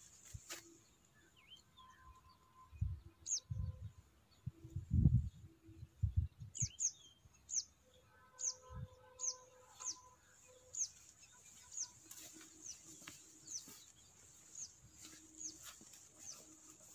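A bird calling in a repeated series of short, high chirps that fall in pitch, about one or two a second, over a steady high hiss. Several low thumps come between about three and six seconds in.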